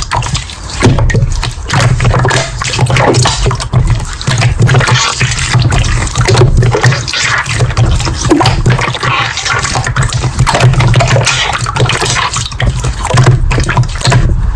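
Slime being squished and worked by hand: continuous wet squelching with many small popping clicks.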